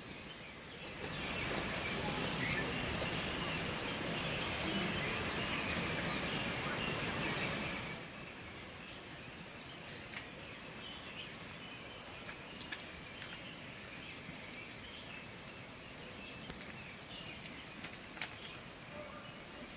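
Forest trail ambience: a steady, high, insect-like drone throughout, with a louder rushing noise from about one second in to about eight seconds in, then a few faint clicks.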